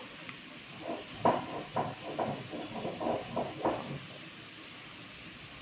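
A series of light, irregular taps and rustles, about two a second for roughly three seconds, then quiet room tone: a teaspoon of ground black pepper being added to chicken pieces in a bowl.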